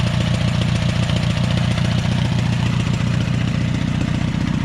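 Allis-Chalmers tractor's gasoline engine running steadily with no muffler, an even, rapid exhaust beat, just after its first start following the fuel-system flush; it runs smoothly enough to sound pretty decent.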